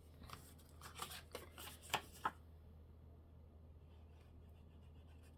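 Faint rustling and handling of paper on a craft desk, with a few sharp taps in the first two seconds or so. After that only a faint, steady low hum is left.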